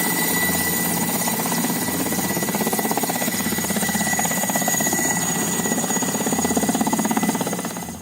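Boeing 747-400 freighter's jet engines at takeoff power as it departs: a loud, steady noise with a fast pulsing texture and a thin high whine, cutting off suddenly at the end.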